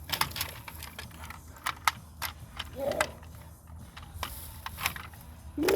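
Plastic toys being handled, giving irregular clicks and clacks. A brief child's voice sound comes about three seconds in, and a louder one starts right at the end.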